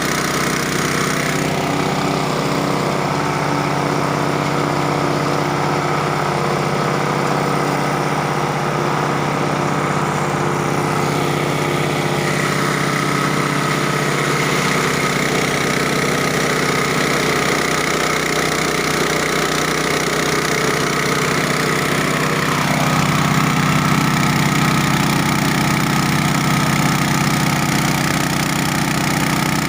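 Engine of a multipurpose chopping machine running steadily while it grinds cassava. Its tone shifts a few times: about two seconds in, around twelve seconds and around twenty-three seconds.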